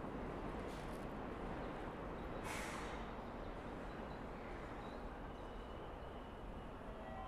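Busy train-platform ambience: a steady rumble of trains and crowd. About two and a half seconds in comes a short hiss of compressed air from a train's brakes or doors, and near the end a steady chime-like tone begins.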